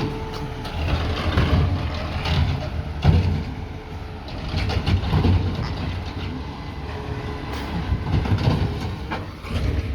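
Peterbilt 520 McNeilus ZR garbage truck's engine running with a low rumble that swells and eases, and a sharp knock about three seconds in.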